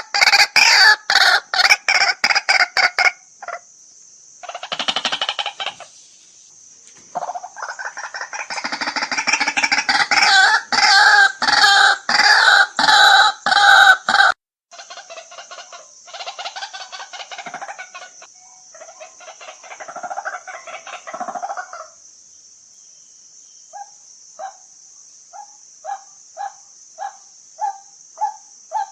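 White-breasted waterhen calling: a long run of loud, rapidly repeated calls that breaks off suddenly about halfway through. Softer calls follow, and near the end comes an even series of short single notes, about two a second.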